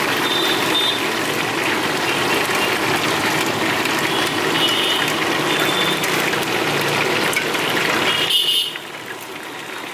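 Chicken frying in an iron kadai while it is stirred with a spatula: a steady sizzling hiss, with a few brief high-pitched tones over it. The sizzle drops away abruptly about eight seconds in.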